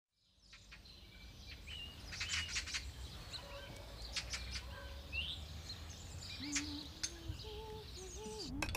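Birds chirping and calling in short, quick notes over a low steady rumble, fading in from silence.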